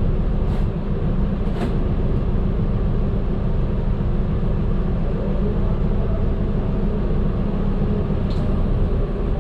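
Medium bus engine and road noise heard from inside the cabin while driving: a steady low rumble, with a few short ticks from the cabin about half a second, a second and a half, and eight seconds in.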